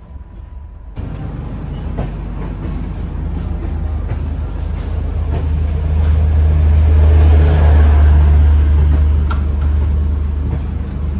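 Steady low rumble of a moving passenger train heard from inside the coach, starting abruptly about a second in and swelling to its loudest around the middle, with a few sharp clicks over it.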